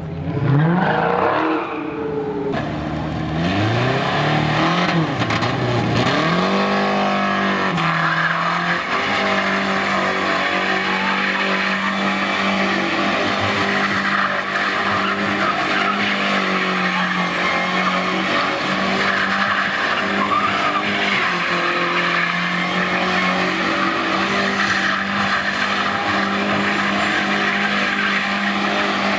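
Pickup truck doing a burnout: the engine revs up and down a few times, then is held at steady high revs for over twenty seconds while the tires spin and squeal against the pavement.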